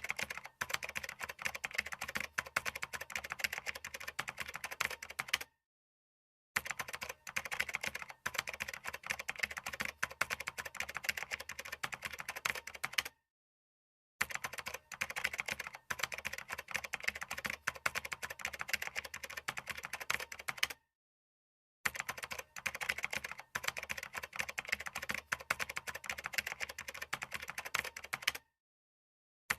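Fast, continuous typing on a computer keyboard: a dense patter of keystrokes in runs of about seven seconds, each cut off by roughly a second of dead silence before the next run starts.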